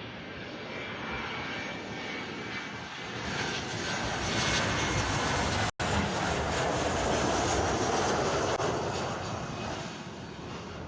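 Jet engines of a Boeing 737-300, CFM56-3 turbofans, growing louder as the airliner passes close by, then fading. A split-second cut-out breaks the sound midway.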